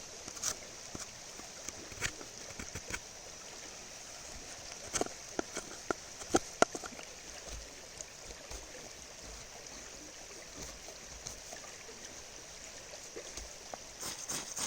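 Knife blade carving a wooden cutting-board handle: short scraping, clicking cuts in small groups, over the steady rush of a river in flood.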